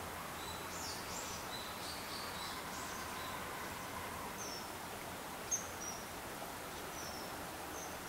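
Steady outdoor background hiss with small birds chirping in high, short notes: a cluster of chirps in the first few seconds, then single short falling chirps every half second to a second. One sharp tap about five and a half seconds in.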